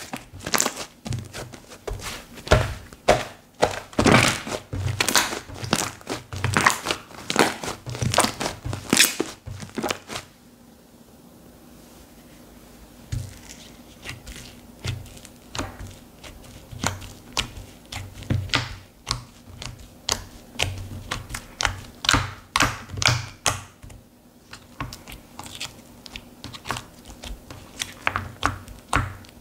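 Cocomo Slime slime being squished and pressed by hand, giving quick crackling, popping clicks. The clicking stops for about three seconds roughly ten seconds in, then comes back more sparsely.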